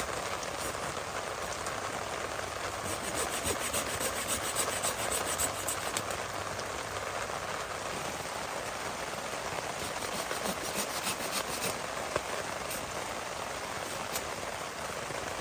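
Heavy rain falling steadily. About three seconds in and again near the end, stretches of quick, rhythmic rasping strokes fit a hand saw cutting wet wood.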